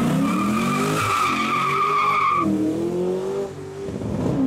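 Supercar doing a burnout: the tyres squeal steadily over the revving engine, the squeal cutting off about two and a half seconds in while the engine note drops and then climbs again.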